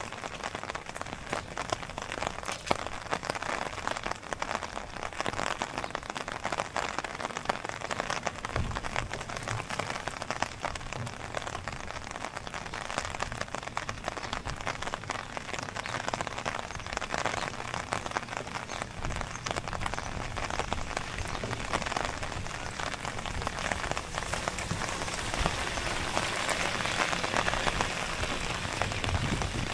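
Steady rain falling, thick with the fine ticks of individual drops, growing a little louder in the last few seconds.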